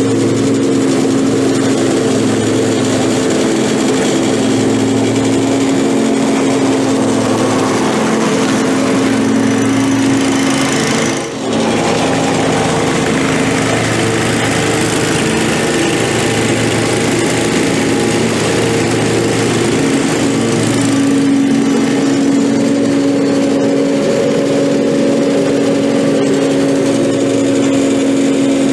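Lawn mower engine running steadily while mowing, with a brief dip in level about eleven seconds in.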